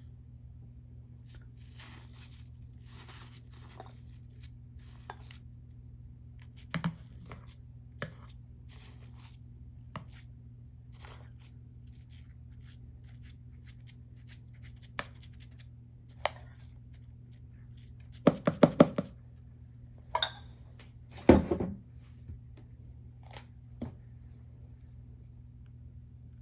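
Close handling noises: scattered rustles, taps and clicks over a steady low hum, with a quick run of louder knocks about 18 seconds in and another loud clatter about 21 seconds in.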